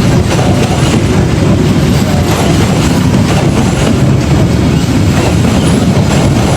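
GE 7FDL-8 V8 diesel engine of a locomotive running steadily after start-up: a loud, even, low rumble.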